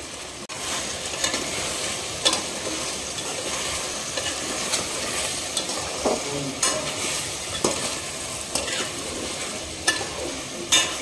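Chicken pieces and potatoes sizzling in oil in a metal pot while a flat metal spatula stirs them, clicking and scraping against the pot every second or two over a steady frying hiss.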